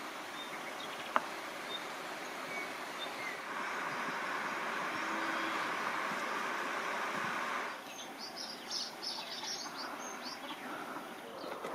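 Small birds chirping, with a quick run of high chirps about eight seconds in, over a steady outdoor hiss that cuts off just before them.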